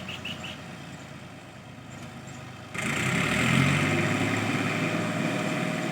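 Tractor engine running at idle, a steady low drone that becomes suddenly louder and fuller just under three seconds in.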